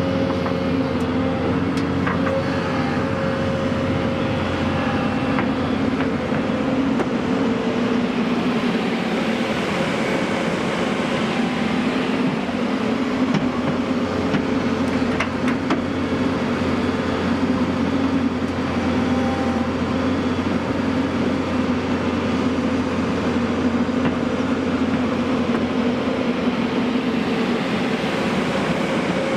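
Heavy vehicle's diesel engine running steadily, a continuous drone.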